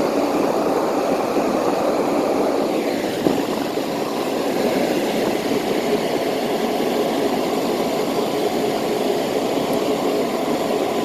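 Vintage Whirlpool 10,000 BTU window air conditioner running on high cool with the compressor on: a steady rush of air from its large fan, with a faint steady hum, and one small knock about three seconds in.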